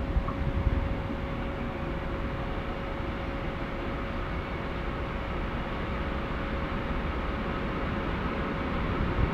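Electric freight train led by an E189 locomotive approaching from a distance: a steady low rumble that grows slightly louder near the end.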